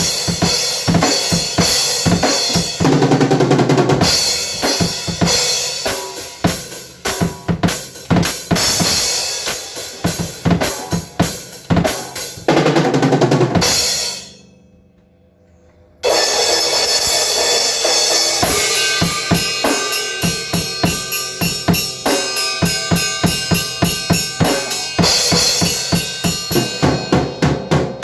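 Drum kit played in fast, dense strokes. It drops almost to silence for about two seconds midway, then starts up again.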